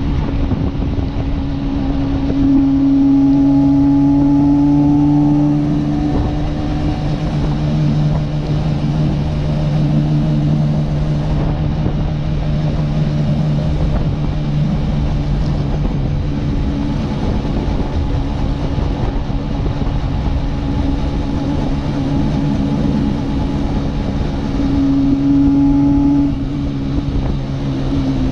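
1966 Suzuki T20 (X-6) 250 cc two-stroke twin running steadily while riding, with wind noise on the microphone. Its note swells louder for a few seconds early in the ride stretch and again near the end.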